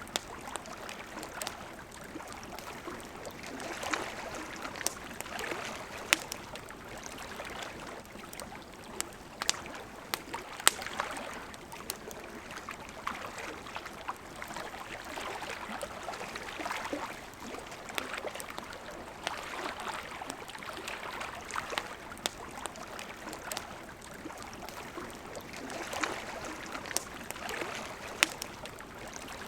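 A wood campfire crackling, with sharp irregular pops, over the steady rush of a flowing river.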